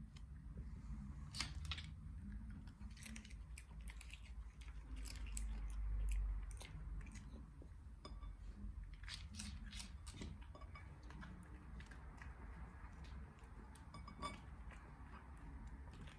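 A dachshund chewing and eating food: irregular wet clicks and crunches of teeth and jaws. A low rumble swells about six seconds in.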